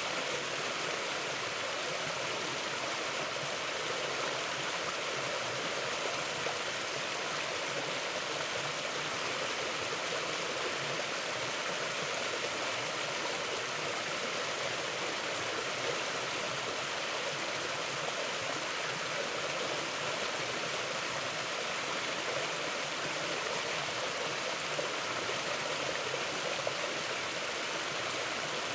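Mountain river flowing: a steady, unbroken rush of water with no change in level.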